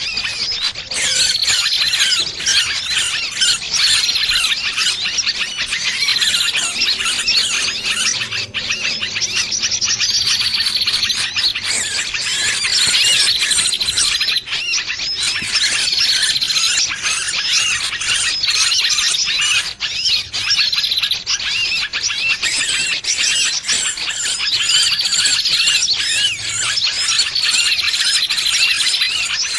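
Shrill distress squeals of a trapped, pinched small bird, a bird-trapping lure call: dense, rapid high-pitched calls with short falling squeals repeating every couple of seconds.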